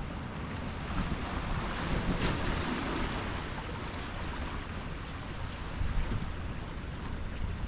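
Ocean surf: a wave breaks and washes in, its hiss swelling about one to three seconds in and then easing, over a steady low rumble of wind on the microphone.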